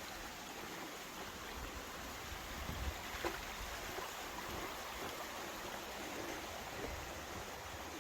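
Small creek flowing, a steady even rush of water.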